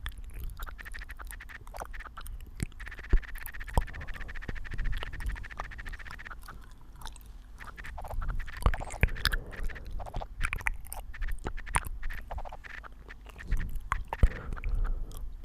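Computer keyboard keys clicking in quick, irregular taps. A faint steady high tone runs under them for about the first six seconds.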